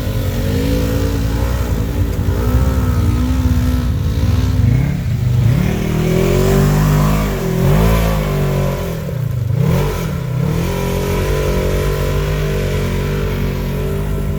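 Polaris RZR side-by-side engine running under load on a trail, its revs climbing and dropping several times in the middle of the stretch, steady at the start and end.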